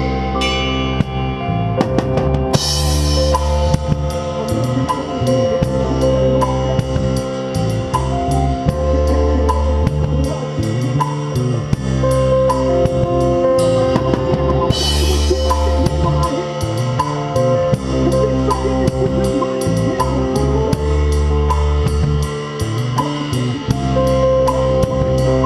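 Rock drum kit played in time with a song: a kick-and-snare beat under a fast, even stream of cymbal strokes. Crash cymbals hit about two and a half seconds in and again near the middle, over other instruments holding sustained notes.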